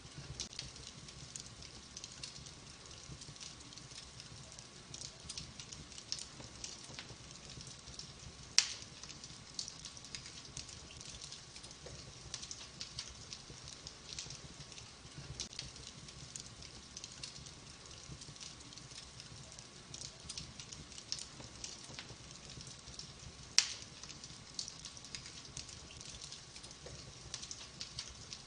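Wood fire burning in a fireplace, crackling continuously with many small sharp snaps, and two loud pops, one about a third of the way in and another well past the middle.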